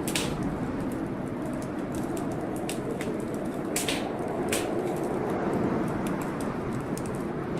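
Wood fire crackling in a fireplace, with scattered sharp pops, the loudest about four seconds in. Underneath is a steady rushing storm noise.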